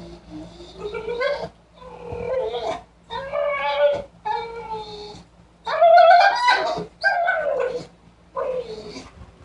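Dog warbling with excitement: a run of about seven drawn-out, whining calls that slide up and down in pitch, with short pauses between them.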